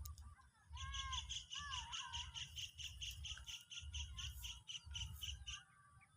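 A bird known locally as "traktoran" calling in a fast, even series of sharp, high chirps, about five a second and lasting nearly five seconds. A few lower, curved whistled notes come near the start. Wind rumbles on the microphone underneath.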